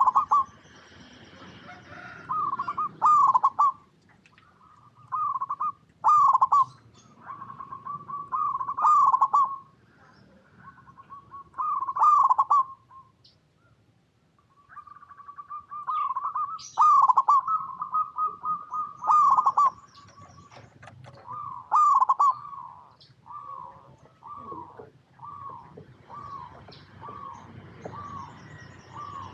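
Zebra dove (perkutut) cooing: rapid trilled coo phrases in groups of a few seconds with short pauses, then from a little past the middle a run of short evenly spaced coos, about one a second.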